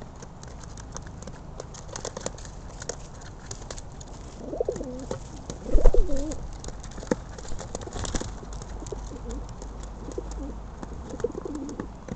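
Pigeons cooing, with a few wavering coos about four and six seconds in and softer ones near the end, over a scatter of sharp clicks and taps.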